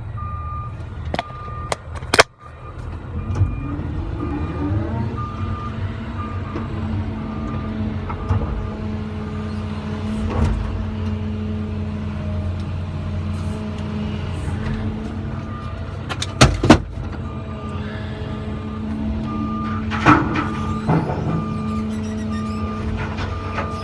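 Heavy diesel engine of a CAT 345 excavator running steadily, rising in pitch as it revs about three seconds in, while a reversing alarm beeps about once a second. A few loud metallic clanks break through, two close together about two-thirds of the way in.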